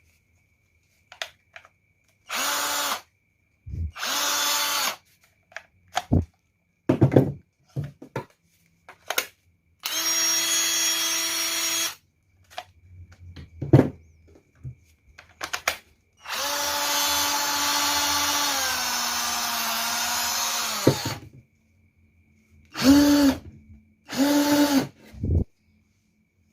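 Repaired Maktec MT081 cordless drill on an 18V battery being test-run in bursts on the trigger, with a steady motor whine each time. The longest run lasts about five seconds and its pitch drops a step partway through. Clicks and knocks of handling come between the runs.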